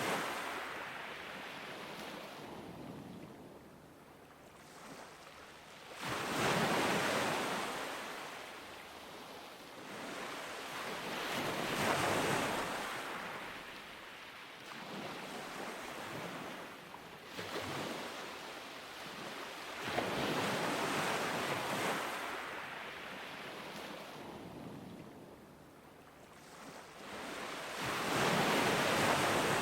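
Ocean surf breaking on a beach: a rush of water that swells and fades, each wave surging in every five to eight seconds.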